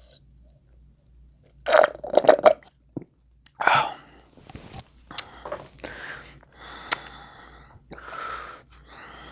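Close-miked eating mouth sounds: chewing and smacking, in a cluster of short loud bursts about two seconds in and another near four seconds, then softer ones.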